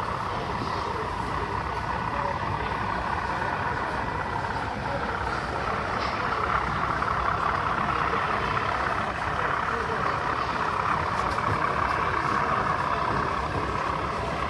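Steady hubbub of a busy exhibition hall: a continuous background of many people chatting, with no single sound standing out.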